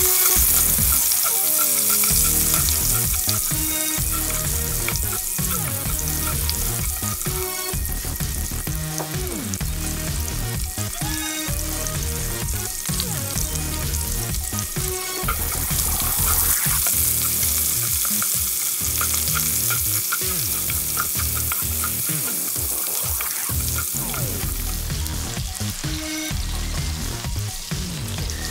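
Garlic and sliced onion sizzling in hot pork fat in an enamelled pot, a steady frying hiss. A spoon scrapes and taps against the pot as it is stirred.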